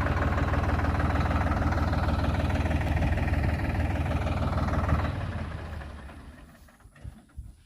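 Tractor diesel engine running steadily, then fading out over about two seconds, starting about five seconds in.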